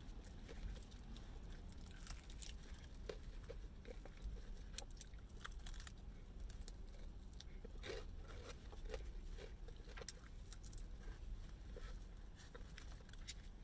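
A person eating fried chicken: quiet chewing with small tearing and crunching noises as the meat is pulled off the bone, scattered soft clicks throughout.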